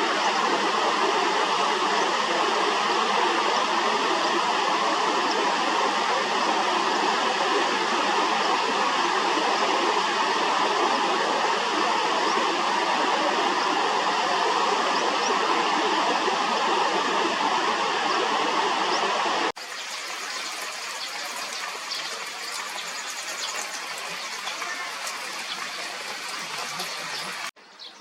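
Steady rush of stream water. About two-thirds of the way through it cuts off abruptly, giving way to a quieter outdoor hiss with faint short high-pitched chirps.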